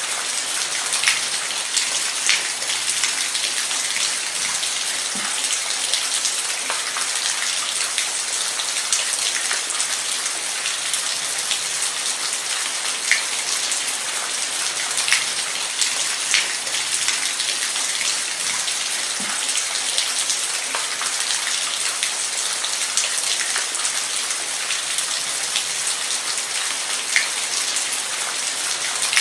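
Steady rain falling, an even hiss with individual drops pattering sharply every second or so.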